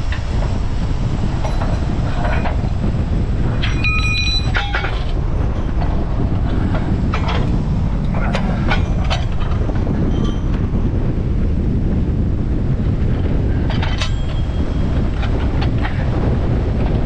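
Strong gusting wind buffeting the camera microphone despite its wind guard: a loud, steady low rumble. A brief high squeal comes about four seconds in, with scattered metallic clicks and knocks.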